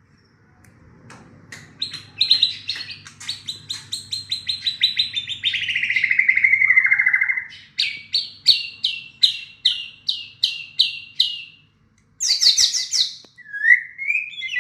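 White-rumped shama (murai batu) singing. It starts with a fast rattling trill that slides down in pitch, then gives a series of separate sharp notes at about two a second. After a brief pause comes a burst of high notes, then rising whistles near the end.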